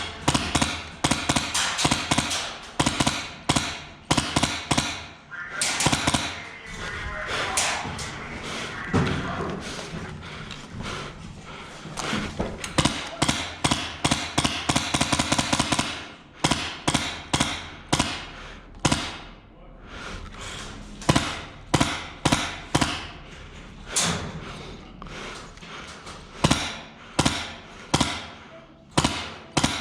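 Airsoft guns firing irregular single shots and short quick bursts, sharp snapping cracks at a steady pace of one or two a second.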